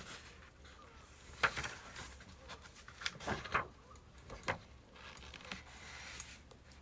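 Birch firewood burning: irregular crackles and sharp pops over a low hiss, the loudest pop about a second and a half in and a quick cluster of them around the middle.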